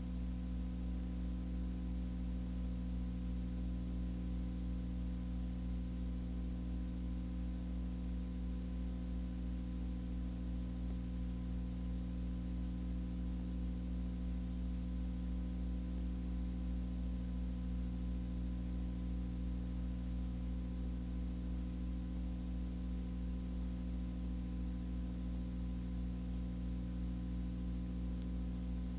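Steady low hum with a layer of hiss, unchanging throughout.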